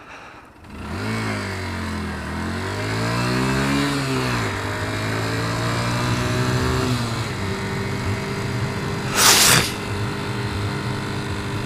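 Motorcycle engine pulling away and accelerating, its pitch climbing and dropping at each gear change, then settling to a steady cruise. A brief loud rush of noise about nine seconds in.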